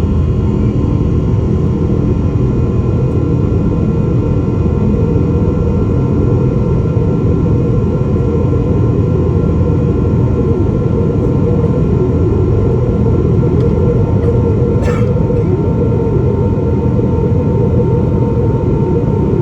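Cabin noise of a Boeing 777-300 airliner under way: a steady, loud rumble of jet engines and airflow, with faint steady whining tones above it. Near the end comes one brief, high, sharp sound.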